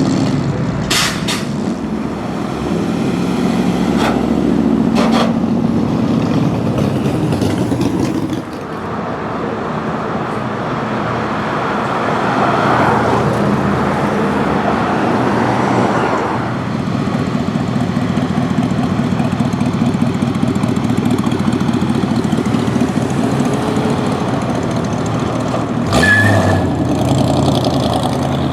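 Car engines running as vehicles move slowly past, the sound swelling and fading over several seconds, with a few short sharp sounds near the start and one about three-quarters of the way through.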